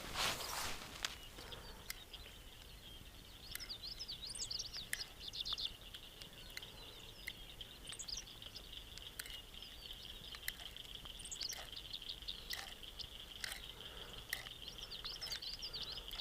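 Birds chirping in short quick runs of calls over a steady high-pitched insect drone, with a few faint clicks.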